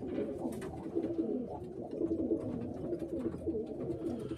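Several pigeons cooing in the loft, their calls overlapping continuously, with a few faint clicks.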